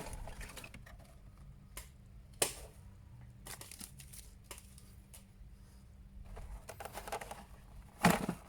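Plastic packaging crinkling and small plastic parts clicking as an action figure and its accessories are handled out of the box. The sharpest click comes about two and a half seconds in, and the handling gets louder near the end.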